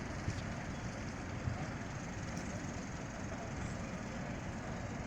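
Steady outdoor rumble with wind buffeting the microphone; no distinct events stand out.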